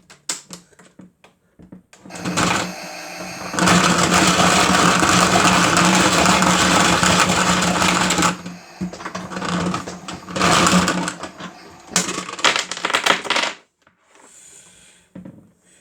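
Miele W1 toy washing machine's small motor spinning its drum loaded with batteries, which clatter and rattle loudly against it for several seconds, then more unevenly, until it stops about thirteen seconds in. A few sharp clicks come before it starts.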